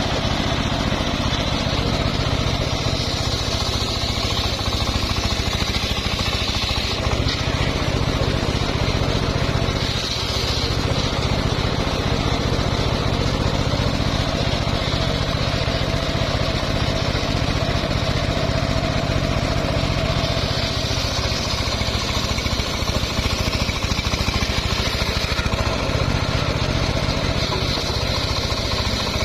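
Engine of a home-built circular sawmill running steadily, its blade cutting through mahogany wood, with the higher whine of the cut swelling and easing several times.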